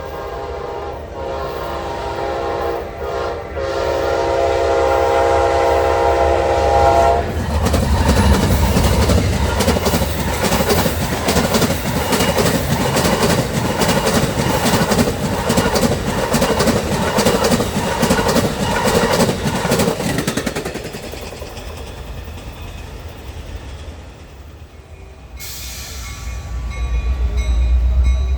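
Train horn sounding a steady multi-note chord for about seven seconds, then a train passing close by with its wheels clacking in a fast, even rhythm over the rail joints for about fourteen seconds before the noise drops away.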